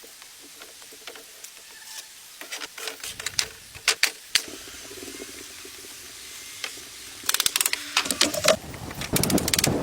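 Hand-tool work: scattered clicks and knocks, then bursts of rapid rattling clicks about seven seconds in and again near the end.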